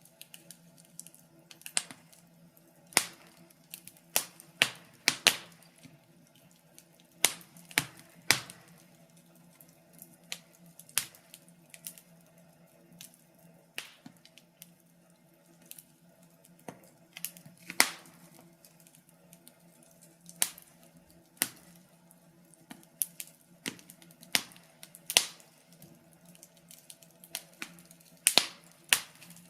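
Wood fire crackling in a fireplace: irregular sharp pops and snaps, sometimes several close together, with a few louder pops, over a faint steady low hum.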